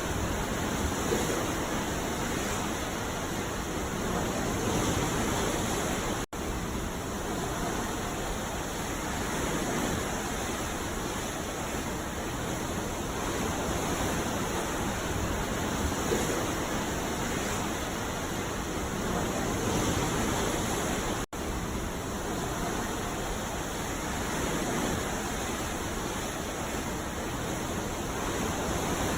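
Ocean surf breaking on a beach, a steady rush that swells and eases every few seconds. The sound cuts out for a split second twice, about six seconds in and again about fifteen seconds later.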